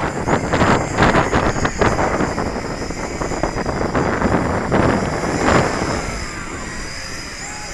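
Heavy wind buffeting the microphone, with the high whine of the Tarantula X6 hexacopter's motors and propellers underneath, rising and falling in pitch as the throttle changes. The buffeting eases after about six seconds.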